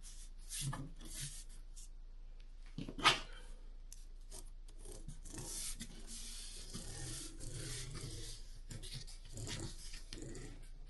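Cardboard being handled, slid and scraped on a work surface in irregular strokes, with one sharp tap about three seconds in.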